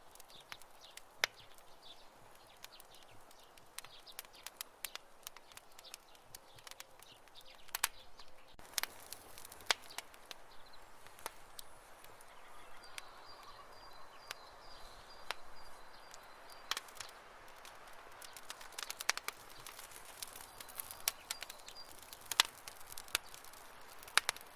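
Wood campfire crackling: irregular sharp pops and snaps over a soft steady hiss, with a few louder snaps in the second half.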